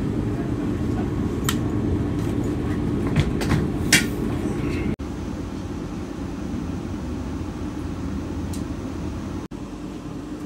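Vande Bharat Express electric trainset running at speed, heard from inside the coach: a steady low rumble of wheels on rail with a faint hum, and a few sharp clicks in the first half.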